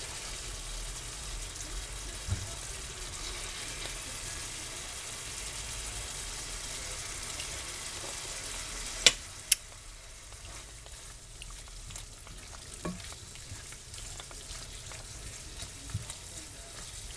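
Food frying in a pan, a steady sizzle. A little past halfway come two sharp clicks about half a second apart, and after them the sizzle is quieter, with small ticks.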